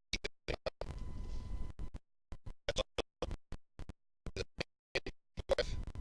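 Badly broken-up recording audio: sound stutters in short fragments, about four or five a second, with dead silence between them. About a second in there is a longer stretch of a second or so with a low rumble and a faint steady tone.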